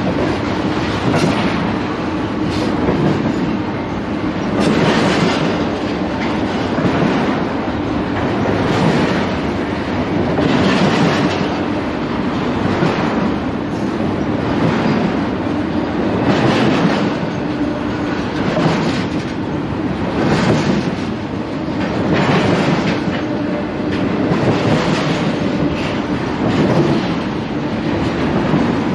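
Double-stack intermodal freight train cars rolling past, steel wheels running over the rails. The noise swells about every two seconds as each car's wheel sets go by, over a faint steady hum.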